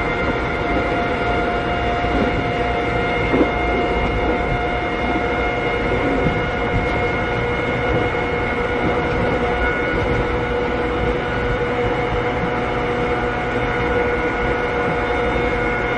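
Interior running sound of a Keikyu old 600-series (second-generation) electric car at a steady cruising speed. Its Toyo Denki traction motors and gears give an even whine of several steady tones over the wheel-and-rail rumble, with a couple of brief knocks from rail joints.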